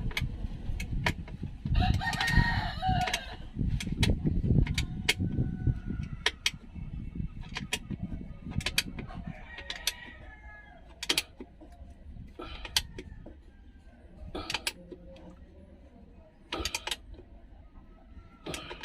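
A rooster crowing, loudest about two seconds in, with fainter calls later. Many short sharp clicks and knocks sound throughout, with a low rumble in the first half.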